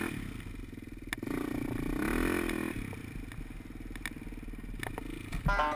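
Dirt bike engine running, revving up and back down about two seconds in, with a few sharp clicks and clatter.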